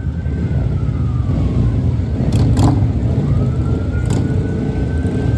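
Emergency-vehicle siren in a slow wail, one tone rising and falling about every four seconds, over a loud steady low rumble of vehicles. A few sharp clicks come near the middle.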